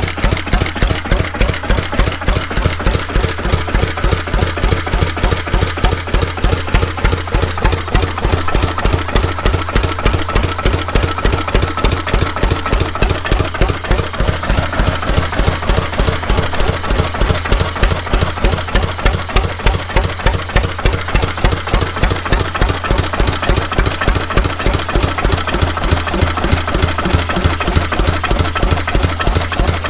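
Vintage McDonald 'Super diesel' stationary engine running steadily, a regular rapid beat of firing strokes at an even speed.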